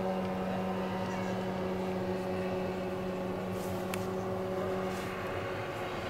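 Outboard motor running at a constant speed, a steady even drone with no change in pitch.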